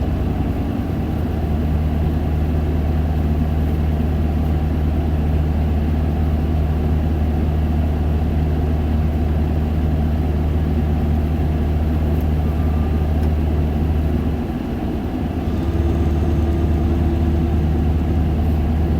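Isuzu Erga 2KG-LV290N2 city bus's diesel engine running at a steady pitch, its tone changing about fifteen seconds in.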